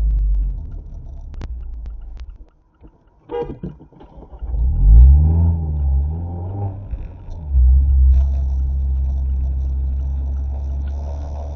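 Mazda MX-5 ND's four-cylinder engine under way. It eases off and goes nearly quiet for a moment with a click, then revs up and drops in pitch as it shifts, and settles into a steady low drone for the last few seconds.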